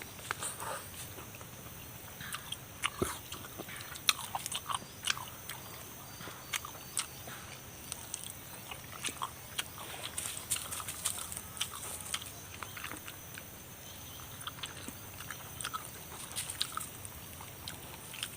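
A person chewing and biting food close to the microphone, with many short, sharp, irregular clicks and crunches.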